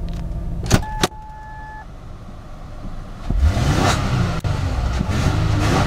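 Cold 2004 Ford Taurus V6 engine running. About a second in come two sharp clicks and a short beep, and the engine note drops. From about three seconds in the engine revs up and falls back twice.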